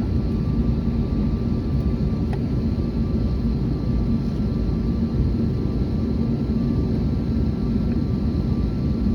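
Airbus A321neo jet engines running steadily: a constant low rumble with a faint steady hum over it.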